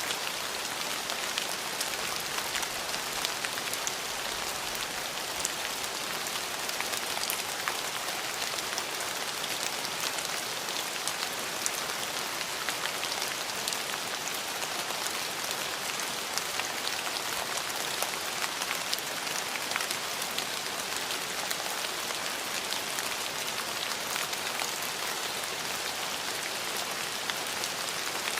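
Steady rain falling and pattering on surfaces, a constant hiss with many small distinct drop hits.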